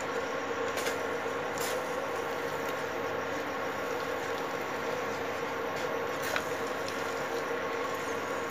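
Thick pav bhaji mash sizzling and bubbling as it is roasted in butter in a nonstick pan and stirred with a silicone spatula, with three short knocks of the spatula against the pan. A steady hum runs underneath.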